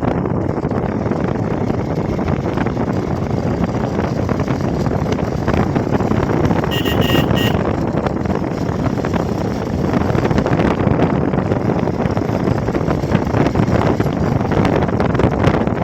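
Hero XPulse motorcycle on the move: a steady rush of wind and engine noise. Just under halfway through, a horn gives three quick short beeps.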